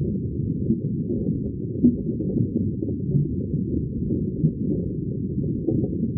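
Underwater bubbling ambience: a steady, deep, muffled rumble of bubbles with nothing high-pitched in it. Two louder bubble pops stand out, about two seconds in and again at about four and a half seconds.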